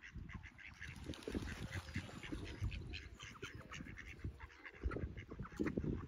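Birds calling in a rapid stream of short, overlapping calls, over an uneven low rumbling noise.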